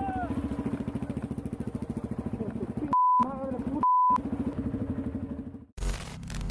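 Motorcycle engine running with an even, rapid pulsing beat, broken about three and four seconds in by two short censor bleeps. Near the end it cuts abruptly to louder rumbling noise with crackles.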